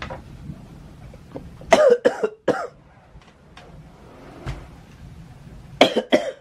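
A person coughing: a fit of about four coughs about two seconds in, then three more near the end, over a steady low rumble.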